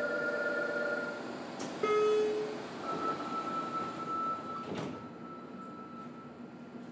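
Interior of a JR Kyushu 303 series electric train coming to a halt at its terminus. The steady tones of its Toyo IGBT inverter cut off about a second in, then there is a click and a short tone. A sliding door sounds, with a sharp knock about five seconds in.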